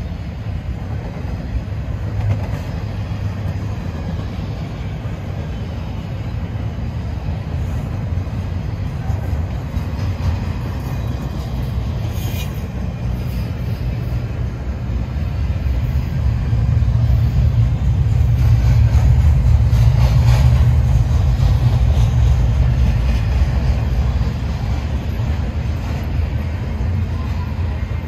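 Double-stack container freight train rolling past close by: a steady low rumble of steel wheels on rail that grows louder for several seconds past the middle, with a few faint clicks.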